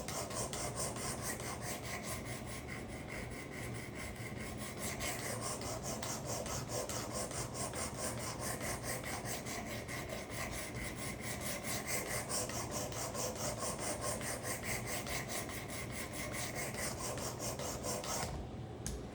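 Hand-held abrasive plate on a Work Sharp guided knife sharpener rasping back and forth along a steel karambit blade in quick, even strokes, about three a second, stopping shortly before the end. These are the last strokes on the first side, grinding metal off to reshape the broken tip and raise a burr.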